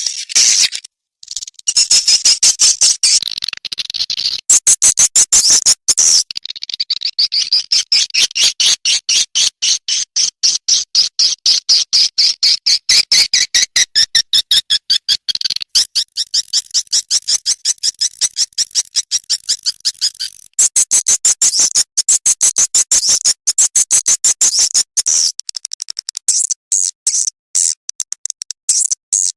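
Swiftlet lure call: a recording of swiftlet chirps, played to draw swiftlets into a nesting house. It runs as a fast, high-pitched chirping of several pulses a second, with a couple of short breaks near the start.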